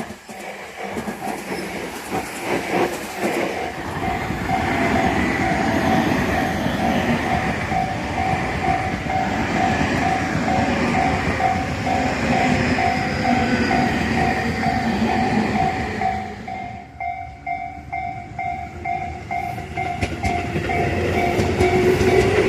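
Tobu Tojo Line train passing with rumbling wheel noise and clickety-clack over the rail joints, while an evenly pulsing tone repeats throughout. The train noise dips about 17 seconds in, then builds again near the end.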